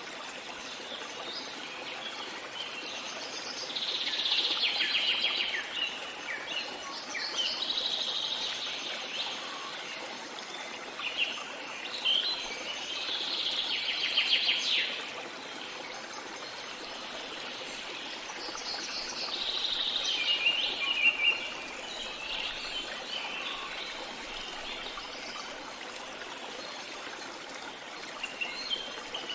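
Songbirds singing in several trilled phrases of a couple of seconds each, over the steady rush of a flowing stream.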